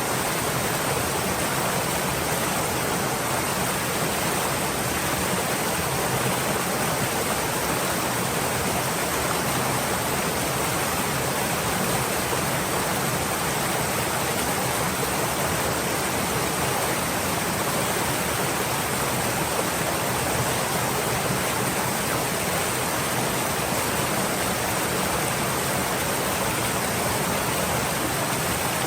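Stream water flowing steadily, a dense even rush of running water with no single splashes standing out.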